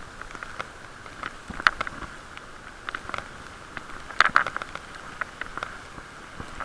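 Rain pattering on a camera's waterproof case, heard from inside the case as irregular sharp taps and crackles over a steady, muffled hiss.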